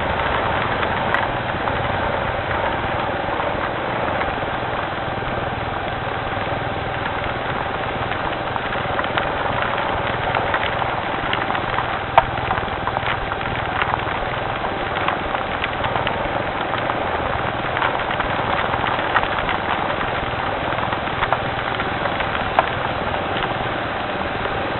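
Steady rain falling, with scattered sharp drips, over a low steady motor hum.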